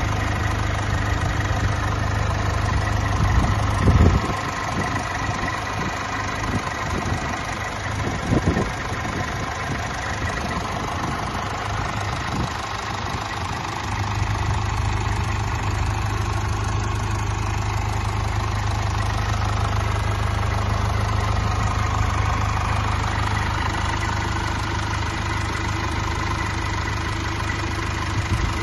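Mercedes-Benz Sprinter van engine idling steadily, with two brief thumps about four and eight seconds in.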